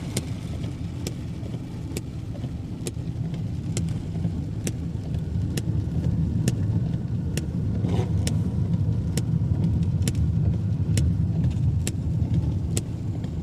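Car cabin: steady engine and road rumble while driving on a wet road, with a sharp regular click a little under once a second.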